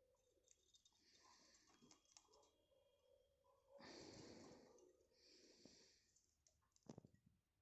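Faint sounds of pet budgerigars: soft chirps and chatter, rustling and a few sharp clicks, with a slightly louder rustle a few seconds in.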